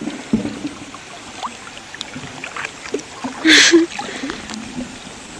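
Floodwater flowing and trickling, a steady rush with scattered small ticks and a brief louder burst of noise about halfway through.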